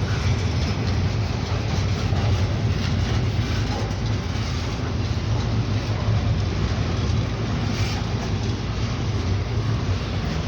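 Long freight train passing, its cars rolling by with a steady low rumble of wheels on rail.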